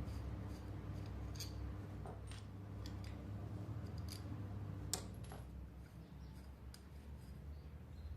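Light metallic clicks and taps of tools and small metal parts being handled, scattered over a steady low hum, with one sharper click about five seconds in.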